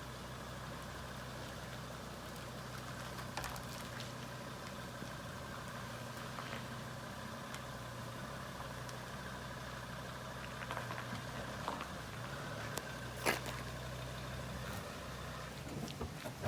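Car engine idling steadily, with a few short clicks over it.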